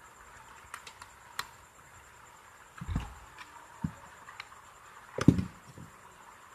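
Light clicks and taps of small plastic and metal parts being handled, with dull knocks about three seconds in and a louder one past five seconds, as an electric iron is fitted back together.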